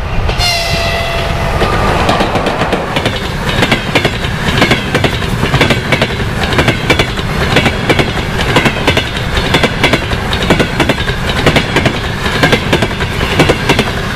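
EP1M electric locomotive sounds a short horn blast about half a second in, then it and its passenger coaches pass at speed close by, the wheels clattering rapidly over the rail joints.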